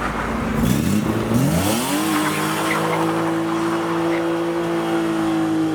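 Car engine revving up hard over about a second and a half, then held steady at high revs, with tyre squeal from a car spinning its wheels.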